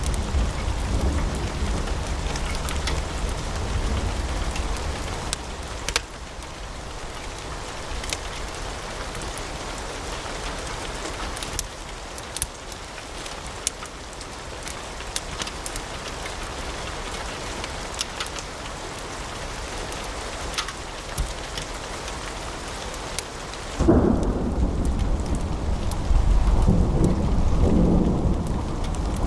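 Wood fire burning in a fireplace: a steady hiss with frequent sharp crackles and pops. Near the end it turns abruptly to a louder, deeper rumble with less hiss.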